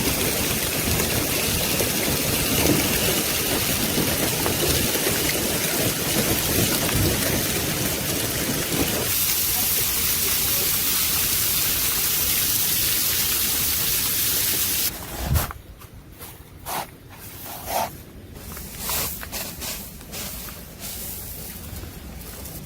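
Heavy hail and rain pouring down in a severe thunderstorm, a dense steady hiss and clatter. About fifteen seconds in it cuts to a quieter stretch with scattered separate knocks and clicks.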